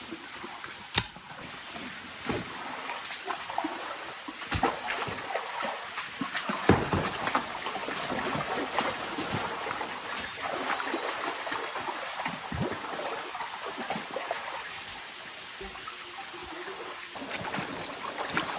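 Rain falling, a steady patter dotted with many small drips and splashes, with a single sharp knock about a second in.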